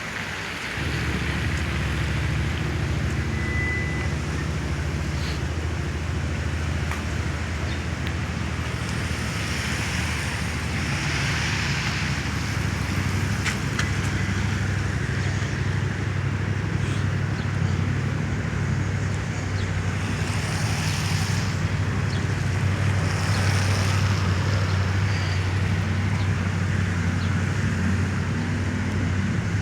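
Traffic on a rain-wet city street: tyre hiss swelling several times as cars pass, over a steady low engine rumble that starts suddenly about a second in.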